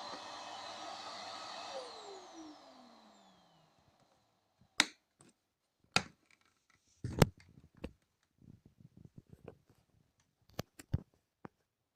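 Rowenta RO3950 bagged vacuum cleaner running, then switched off about two seconds in, its motor whine falling in pitch as it spins down and fades out. A series of sharp knocks and lighter clicks follows.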